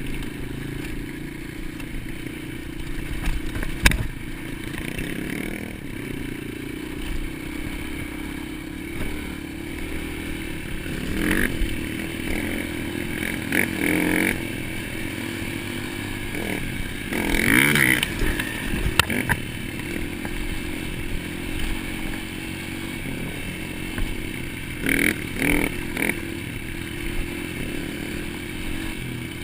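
Dirt bike engine running under a rider, revving up and dropping back several times, hardest around the middle, with a sharp knock about four seconds in.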